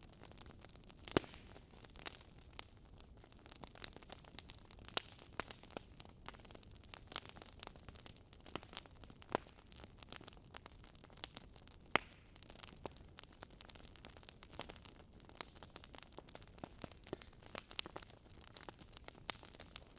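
Wood fire crackling in a fireplace: irregular sharp pops and snaps over a soft hiss, with the loudest pops about a second in and just past the middle.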